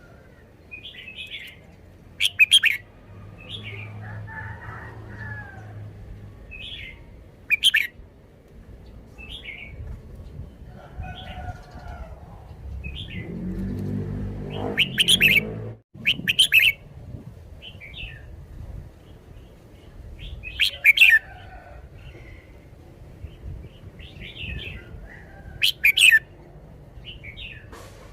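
Red-whiskered bulbul singing a string of short whistled phrases, broken by several loud, sharp notes.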